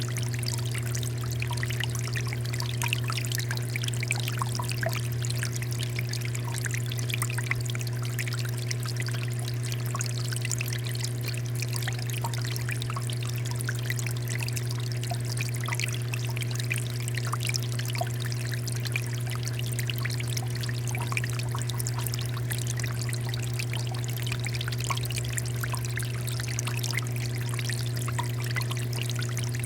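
Water fountain running: a steady pouring and trickling of water with fine splashing, over a constant low hum.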